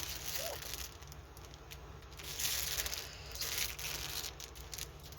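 Plastic bag crinkling and rustling on and off as it is handled.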